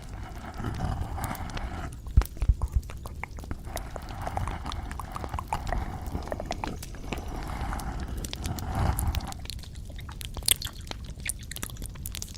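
Close-miked ASMR trigger sounds: irregular sharp clicks and taps, a loud cluster about two seconds in and more near the end, over soft rustling.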